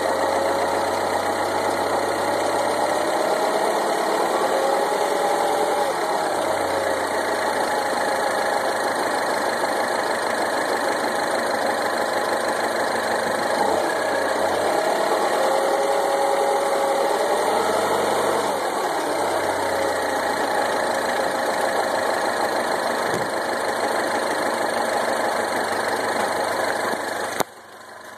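Mini Countryman petrol engine idling with a clattering, diesel-like sound, its idle speed wavering slightly; the owner questions whether this noise is normal. The sound drops abruptly near the end.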